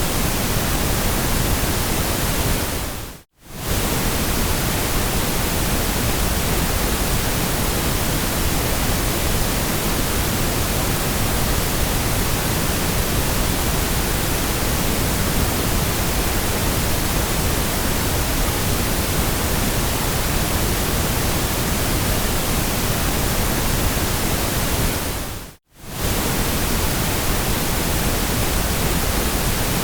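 Steady white noise, an even hiss across all pitches, that fades out to near silence and straight back in twice, briefly, about three seconds in and near the end.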